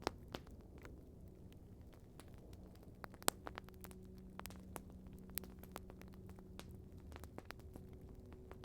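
Wood campfire crackling, with irregular sharp pops and snaps, the loudest about three seconds in, over a faint low steady hum.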